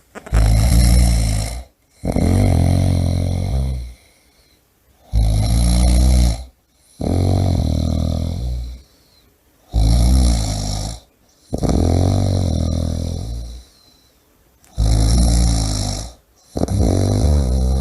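A person snoring: about eight rattling snores in pairs, each lasting one to two seconds, with short silent gaps between them.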